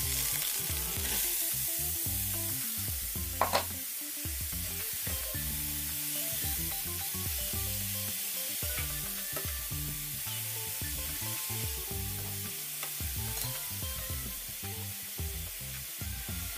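Grated carrots sizzling as they fry in a nonstick pan, stirred and turned over with a plastic slotted spatula, with one sharp knock about three and a half seconds in.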